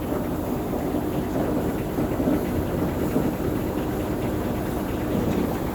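Heavy diesel truck engine running steadily, low-pitched with a faint even hum, typical of a concrete pump truck or mixer truck working on site.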